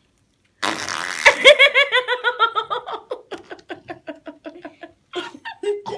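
A short rushing noise, then a long burst of high-pitched laughter in quick rhythmic pulses that gradually slow and fade.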